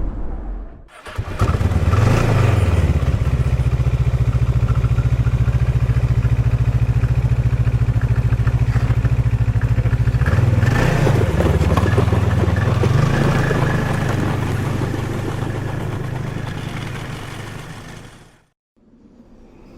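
Motor vehicle engine running steadily close by, its pitch rising briefly twice as it is revved a little, then fading out near the end.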